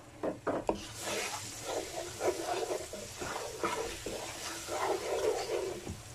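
Tomato paste frying in hot oil in a nonstick pan, sizzling while a wooden spatula stirs and scrapes through it, with a few sharp knocks of the spatula near the start.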